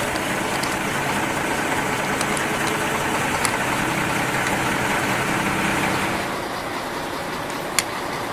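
Truck engine running steadily, growing a little quieter about six seconds in, with a few sharp clicks.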